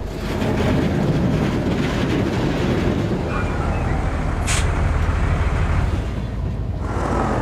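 Heavy truck engine running steadily, with a short air-brake hiss about four and a half seconds in.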